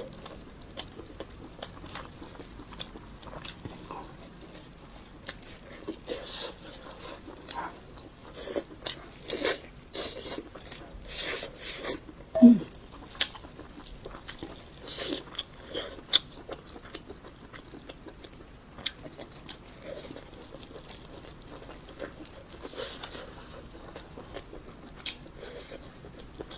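Close-miked eating of spicy pork ribs: chewing and biting, with short crunchy mouth clicks in irregular clusters that are busiest in the middle. About halfway through there is one brief low sound that falls in pitch.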